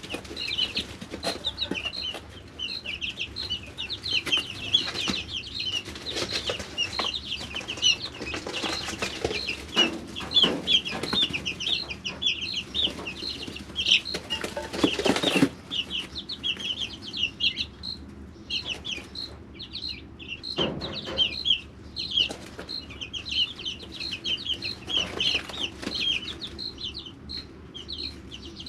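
A brood of three-week-old chicks peeping continuously in short, high chirps. Several louder rustling bursts come through, the longest about fifteen seconds in.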